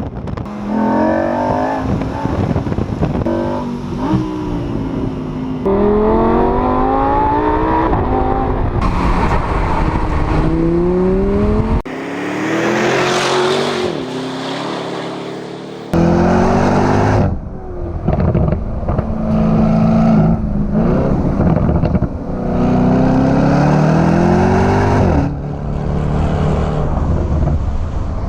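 Supercar engine and exhaust under hard acceleration, the pitch climbing through each gear and dropping at every shift, over and over. The sound changes abruptly twice, about halfway through and again a few seconds later.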